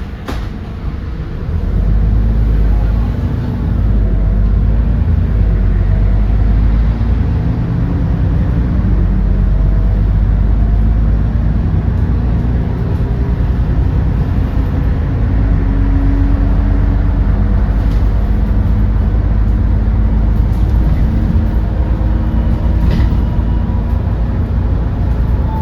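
Edison Motors Smart 110G city bus's GX12P natural-gas engine running, getting louder about a second and a half in and then holding a steady low rumble, its pitch rising and shifting.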